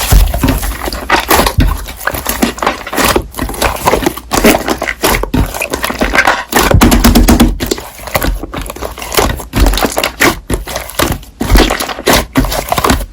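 Slime being squeezed and poked by hand, with a dense run of irregular clicks, pops and crackles.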